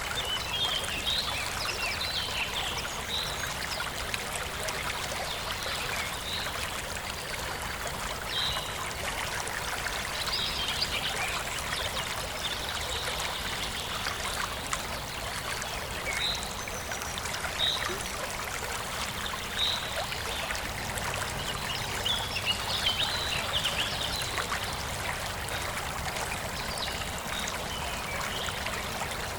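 Forest stream flowing and trickling steadily over stones, with birds chirping now and then above it.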